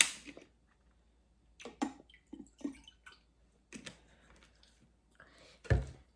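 Someone drinking a blue fruit drink from a bottle: a sharp click at the start, then a few quiet gulps and small wet mouth clicks, and a heavier knock near the end.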